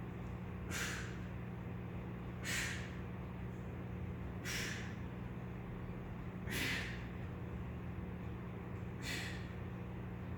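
A man's forceful breaths out, five of them about two seconds apart, the hard breathing of exertion during a weighted bodyweight workout. A steady low hum runs underneath.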